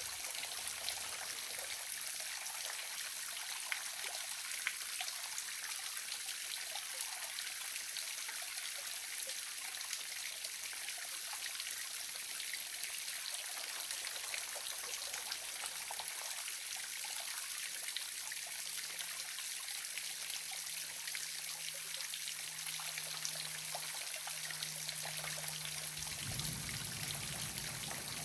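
Small waterfall: water trickling and splashing steadily into a constant even hiss. A faint low hum comes in about two-thirds of the way through and grows near the end.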